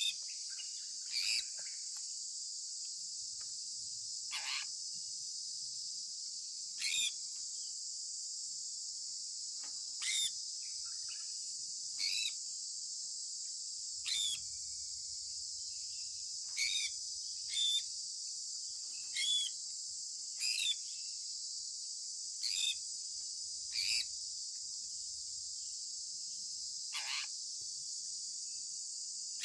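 Sun conure parrot giving short, sharp chirps, about a dozen of them spaced irregularly one to three seconds apart, each sliding down in pitch. Behind the chirps runs a steady high-pitched hiss.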